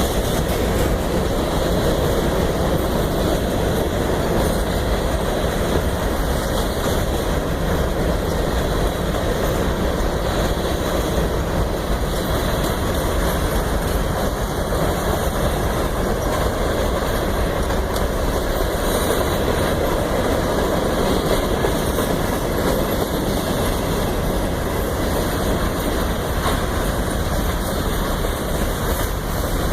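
Union Pacific train rolling past: a steady rumble and rush of wheels on rail, with no horn sounding.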